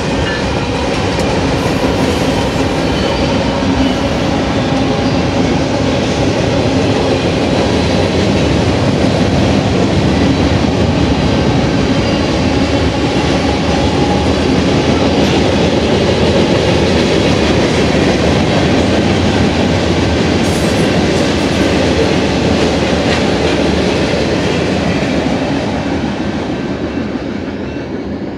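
BNSF freight train passing close by: the diesel locomotives go past first with an engine hum, then a long string of freight cars rolls by with steady wheel-on-rail noise. The noise fades as the last cars pass near the end.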